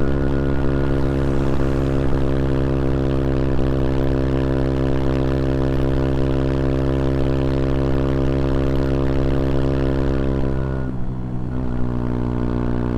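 CFMoto Papio XO-1's small single-cylinder engine running at a steady, unchanging pitch, then dipping briefly about eleven seconds in before settling into a steady note again.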